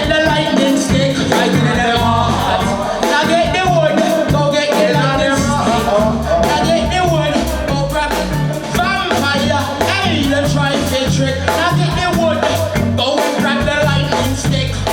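Live reggae band playing the warm-up riddim: a deep, repeating bass line under a wavering melody line.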